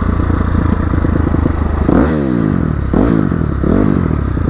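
Dirt bike engine running under the rider, its pitch dropping and climbing again in quick throttle blips about halfway through and twice more near the end.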